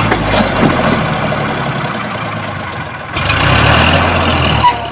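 Diesel engine running, dropping away after the first half-second and coming back louder about three seconds in.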